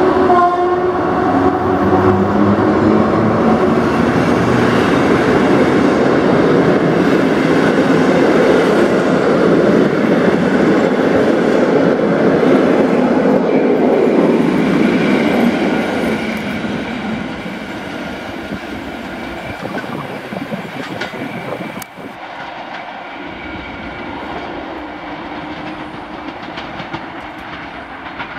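Passenger carriages behind an EP07 electric locomotive rolling past, a steady rumble of wheels on rails. It is loud for about the first fifteen seconds, then fades as the train moves away over the points.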